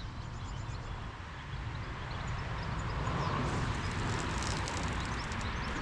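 Outdoor background noise: a low, uneven rumble that swells through the middle, with birds chirping faintly.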